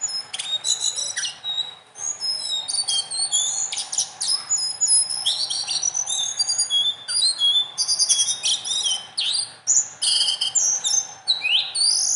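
A small songbird singing a fast, unbroken run of sharp high chirps, trills and quick slurred notes, the piercing 'nembak' notes delivered in a continuous rolling 'ngerol' flow, ending in a few steep rising sweeps.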